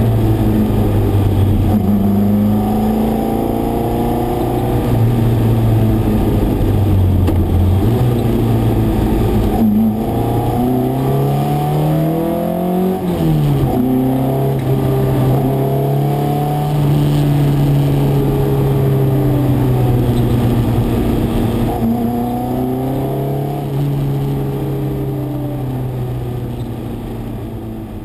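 Fiat X1/9 Abarth prototype's 2.0-litre twin-cam engine heard from inside the cabin under hard driving, the revs climbing, dropping sharply at gear changes and lifts, and climbing again. The sound fades away over the last few seconds.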